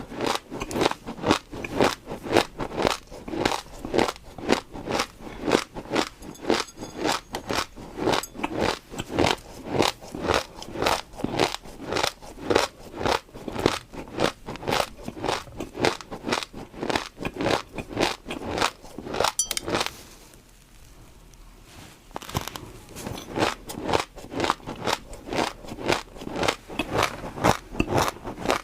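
Close-miked crunchy chewing of food, about three crisp bites a second. It pauses for a couple of seconds about two-thirds of the way through, then resumes.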